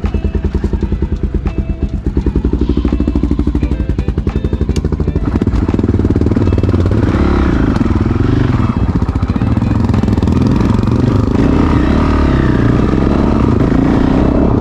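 Honda CRF450RL's single-cylinder engine through a Yoshimura exhaust, running with an even, fast pulse at low revs, then revving up and down repeatedly from about five seconds in.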